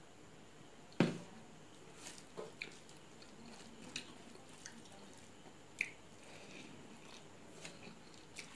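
Close-up eating sounds: wet mouth clicks and smacks of chewing rice and fish eaten by hand. A single sharp knock about a second in is the loudest sound.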